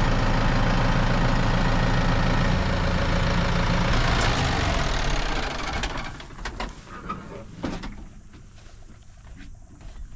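Tractor engine running steadily while its hydraulics raise a bush hog wing. The engine sound drops away about five to six seconds in, leaving a few light clicks and knocks.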